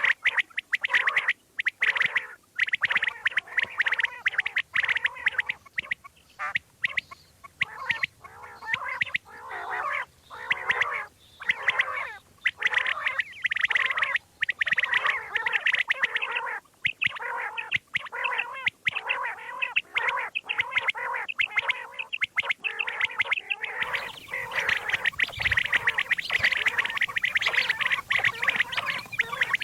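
Common quail calling: a dense chatter of short, rapid calls, broken now and then by brief pauses.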